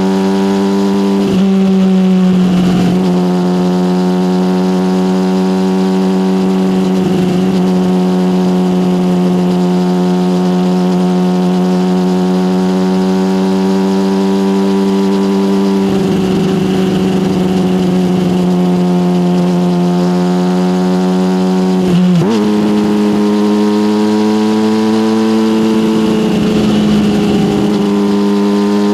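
Yamaha motorcycle with an aftermarket SC Project exhaust riding at a steady engine note, held mostly even for long stretches. There are brief throttle changes and shifts near the start, about halfway through, and again about two-thirds in, where the pitch steps up slightly.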